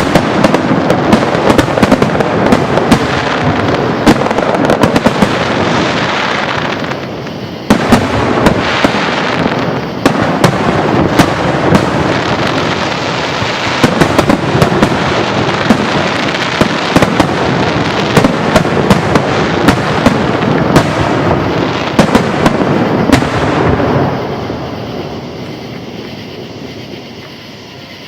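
Aerial fireworks display going off in a dense barrage of overlapping bangs and crackle. It thins briefly about seven seconds in, picks up again, then dies away over the last few seconds.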